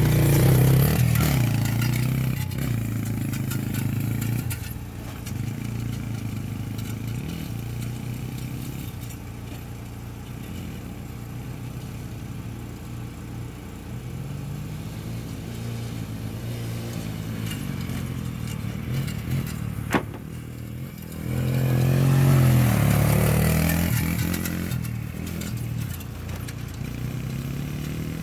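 Small off-road vehicle engines revving hard at a race launch, loud at first and fading as they pull away, then growing loud again for a few seconds past the twenty-second mark as they come back close; a single sharp click sounds shortly before.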